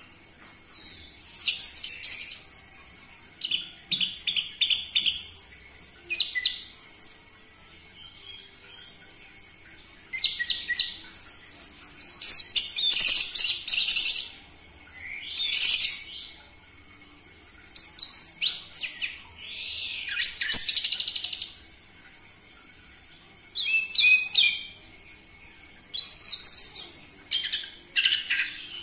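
Orange-headed thrush singing: loud, varied phrases of rapid high whistles, trills and chatter, given in short bursts separated by pauses of a second or two.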